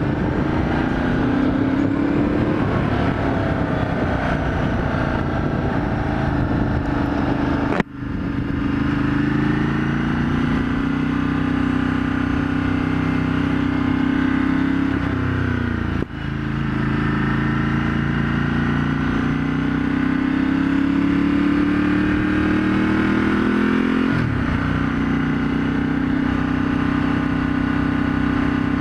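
Ducati Multistrada 1200S L-twin running through a full Termignoni exhaust with the baffle removed, accelerating away. Its pitch climbs and falls back at each of three gear changes, then holds steady at cruising speed.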